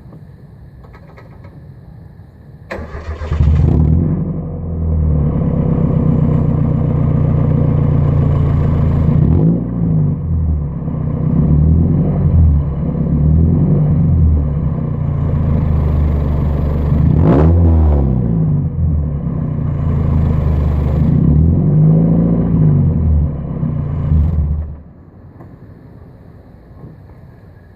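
1996 Mazda Miata's 1.8-litre four-cylinder engine, straight-piped with cat and muffler deleted, starting up about three seconds in, idling loud, and being blipped several times, with one sharp high rev past the middle. It shuts off a few seconds before the end.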